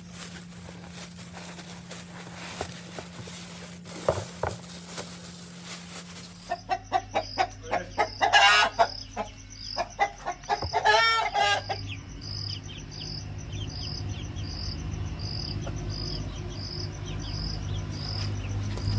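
Chickens clucking and squawking in a run of calls, loudest twice in the middle. Before the calls there are scattered faint clicks and rustling. After them a short high tone repeats about once a second over a low hum.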